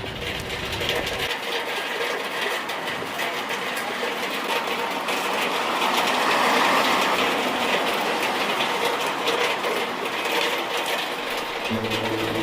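Steady hiss and patter of heavy rain, growing louder about six seconds in and then easing off.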